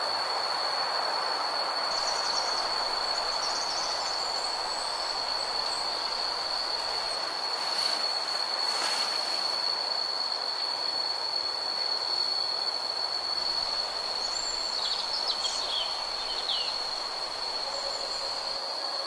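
Forest ambience: a steady high-pitched insect drone over an even hiss, with a few short bird chirps about fifteen seconds in.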